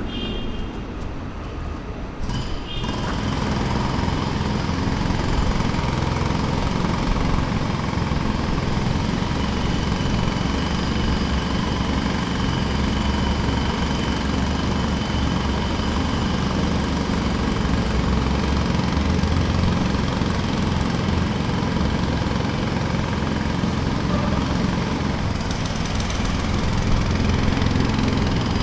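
Jackhammer hammering continuously, a rapid stream of blows that starts loud about three seconds in and then runs steadily.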